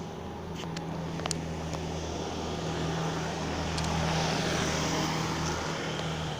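Low, steady engine drone of a motor vehicle that grows louder to a peak about four seconds in, then eases off as it passes.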